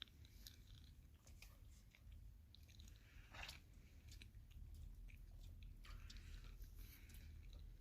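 A person chewing and biting food, faint crunchy mouth sounds with scattered small clicks.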